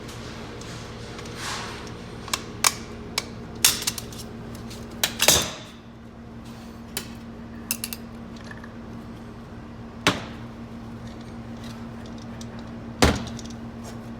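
Metal clicks and clinks of hand tools and parts during an automatic transmission teardown, as a snap ring is pried out and the pieces are handled: scattered sharp knocks, the loudest a short cluster about five seconds in and single knocks near ten and thirteen seconds, over a steady low hum.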